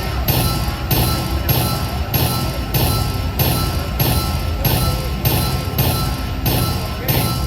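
Slot machine bonus-round music: a steady looping beat with a jingling hit about every 0.6 seconds over a low pulse and a held high tone.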